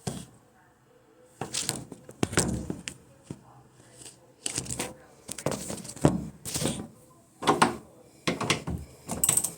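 A series of irregular knocks, clunks and clattering, about a dozen short hits of hard objects being handled or moved.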